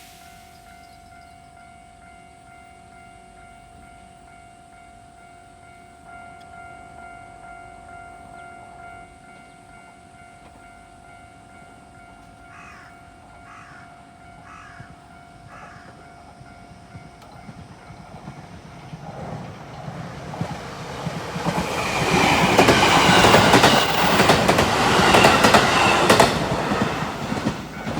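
JR 225 series electric multiple-unit train passing at the level crossing: the noise of the train builds, peaks in a loud rush with rapid rail-joint clatter as the cars go by, and falls away near the end. Earlier, a faint steady tone runs under four short sounds about a second apart.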